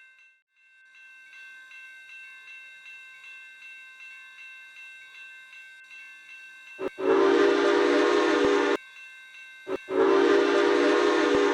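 Steam locomotive whistle on New Hope & Ivyland #40, a Baldwin 2-8-0: a short toot and a long blast about seven seconds in, then another short toot and a second long blast. It is a breathy chord of several pitches. Before the whistle a bell rings about three times a second.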